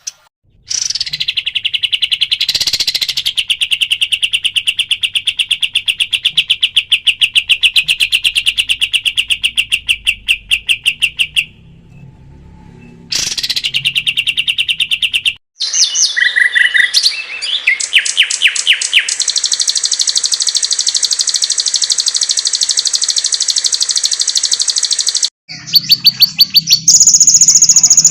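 Songbird training recording of rapid, chattering bird trills spliced together from several clips: a long trill at one pitch that breaks off about eleven seconds in, resumes briefly, then gives way with an abrupt cut to a higher, denser trill, and changes again near the end.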